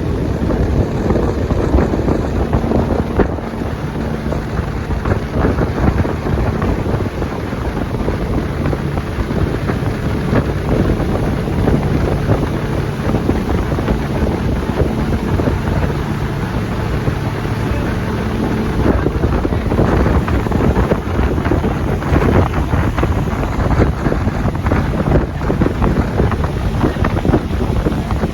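Motorboat under way: a steady engine drone mixed with wind buffeting the microphone.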